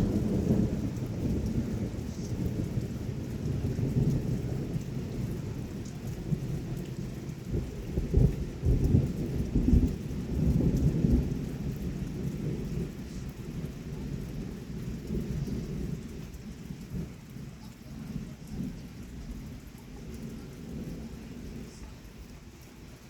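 A long rolling rumble of thunder, already going at the start, swelling to its loudest cracks about eight to eleven seconds in and then slowly dying away.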